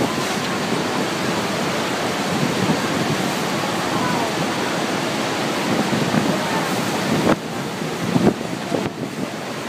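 Steady roar of Niagara Falls' falling water, heard from the boat with wind buffeting the microphone. The roar dips suddenly about seven seconds in.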